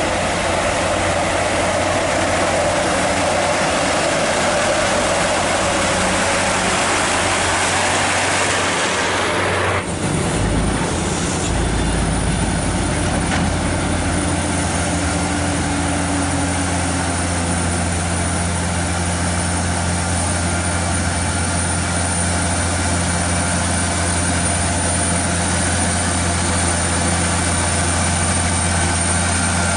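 Heavy truck running steadily, with engine hum and a broad noise throughout. The sound changes abruptly about ten seconds in.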